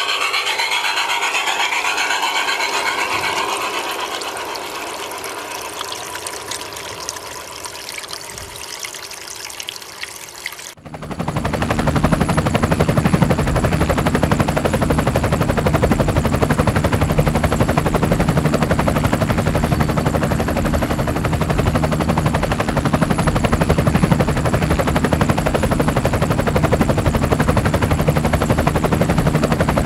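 A rasping hiss that fades away, then, after an abrupt cut about eleven seconds in, the steady, rapidly pulsing buzz of a micro RC helicopter's electric motor and spinning rotor.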